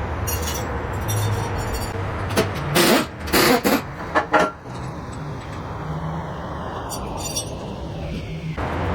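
Workshop noise: a steady low hum with a quick run of metal clinks and clanks a few seconds in.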